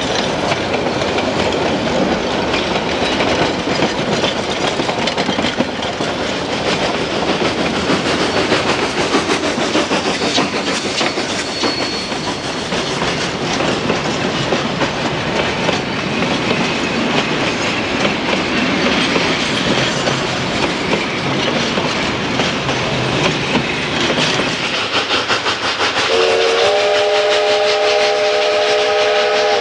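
Narrow-gauge freight cars and then passenger coaches rolling past, their wheels clacking over rail joints under a steady rumble. Near the end a steam locomotive whistle starts blowing: a chord of several tones that slides up slightly at its start, then holds.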